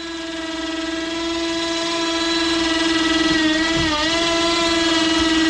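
A single long, steady horn-like tone with many overtones, rising in loudness at first, with a brief dip and wobble in pitch about four seconds in.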